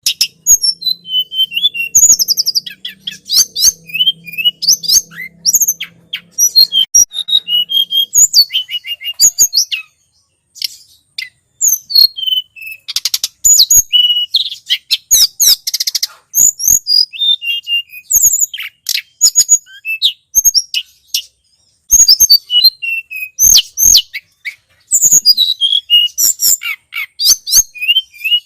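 Tledekan gunung birdsong played as a bird lure: rapid runs of high, sharp chirps and short whistled glides, with brief pauses about ten seconds in and again about twenty-one seconds in.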